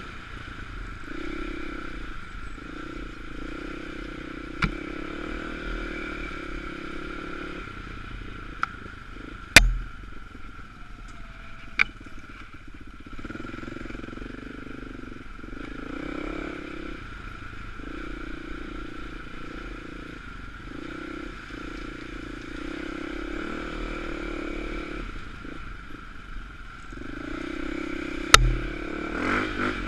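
Off-road dirt bike engine running, its note rising and falling with the throttle, with several sharp knocks and clatters, the loudest about a third of the way in and another near the end.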